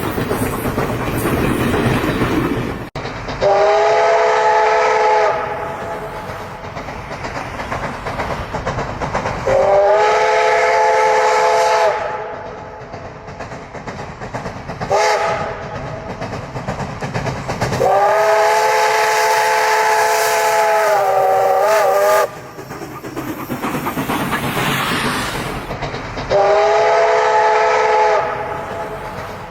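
Steam locomotive's chime whistle sounding a long, long, short, long sequence, the pattern of a grade-crossing signal, then another long blast, over the steady rumble and hiss of the running train.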